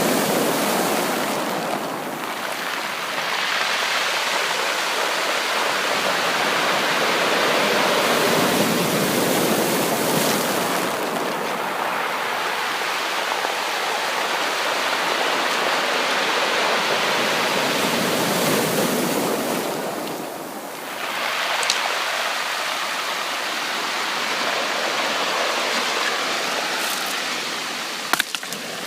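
Sea surf washing ashore: a continuous rush of water that swells and eases in long surges, several seconds each. A couple of short sharp clicks near the end.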